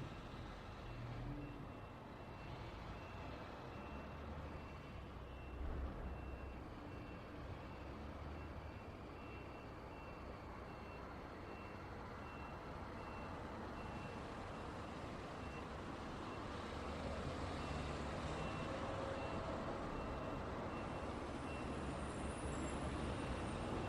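Road traffic rumbling steadily, with a vehicle's reversing alarm beeping a short high tone over and over at an even pace, a little faster than once a second. The traffic grows somewhat louder in the second half.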